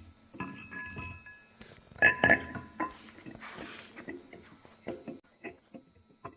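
Metal engine parts and tools clinking and knocking together, with short ringing clanks. The loudest cluster comes about two seconds in, followed by lighter taps.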